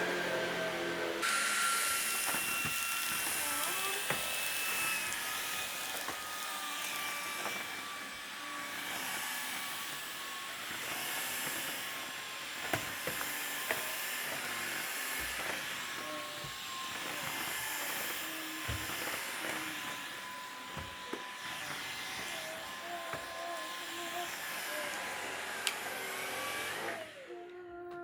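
Vacuum cleaner running: switched on about a second in with a steady motor whine and rush of air, with a few brief knocks along the way. It is switched off near the end, its whine falling as the motor winds down.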